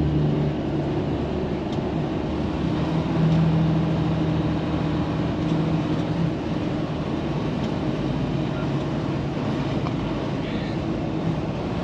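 Semi truck's diesel engine and tyre noise heard from inside the cab while it cruises on the highway: a steady low drone over road hiss.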